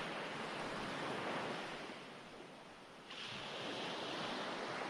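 Ocean waves washing in, a steady hiss of surf. It fades about two seconds in, then swells back a little after three seconds as the next wave comes in.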